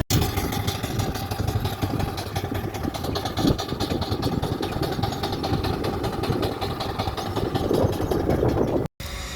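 An engine running steadily with a rapid, even pulse, cut off abruptly near the end.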